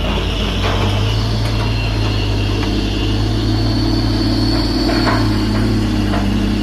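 Heavy diesel engine running steadily with a deep, even hum, a high whine over it that grows stronger about a second and a half in, and a few faint knocks.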